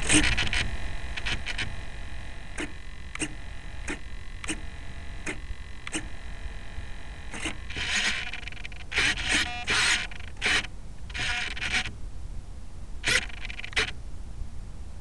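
Handling noise on a small video camera as it is fitted to a model aeroplane: a row of light clicks, then bursts of scraping and rustling against the microphone. A faint steady whine fades out over the first several seconds.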